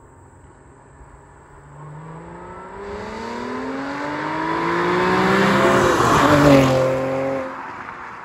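2012 Audi S4's supercharged 3.0-litre V6 accelerating past: the engine note climbs steadily in pitch as the car approaches, is loudest as it passes about six and a half seconds in, then drops in pitch and fades as it drives away.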